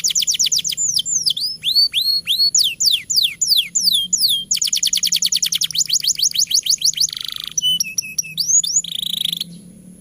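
Canary singing a long song: fast trills of rapidly repeated down-sweeping notes alternate with slower, swooping whistled notes. The song stops about nine seconds in.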